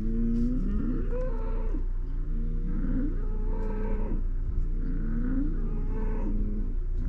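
Several animals calling over one another, their calls sliding up and down in pitch, over a steady low rumble.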